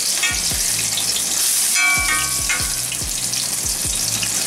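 Breaded cutlets frying in hot oil in an All-Clad D3 stainless steel sauté pan: a steady sizzle. A metal spatula rings briefly against the pan at the start and again about two seconds in.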